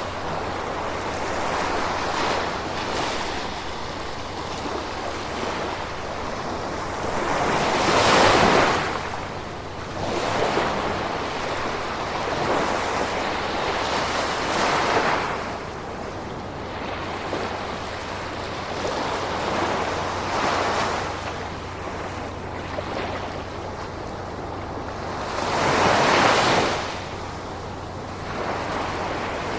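Gentle ocean waves washing in over a steady hiss of surf, with three bigger waves breaking: about a quarter of the way in, near the middle, and near the end.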